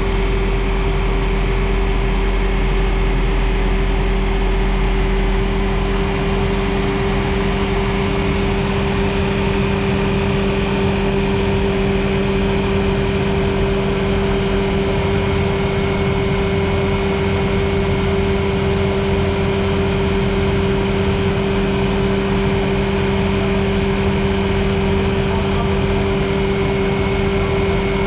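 Bobcat S650 skid steer's diesel engine running steadily at constant speed, with a strong even hum.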